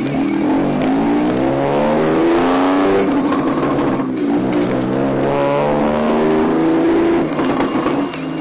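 Daihatsu Mira L500V kei car engine through a GIGA ST straight-pipe exhaust, accelerating under way. The loud exhaust note climbs in pitch, drops with a gear change about four seconds in, climbs again, and drops with another shift near the end.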